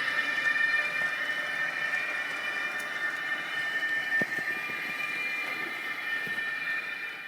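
Recorded AVE S-112 high-speed train running sound played by the Electrotren model's sound module through its small speaker: a steady high whine over a rushing noise, with a small click about four seconds in, dying away at the end.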